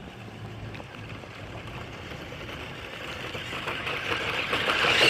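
Radio-controlled toy truck driving in toward the microphone. Its tyres and motor make a rough hiss that grows steadily louder and is loudest near the end.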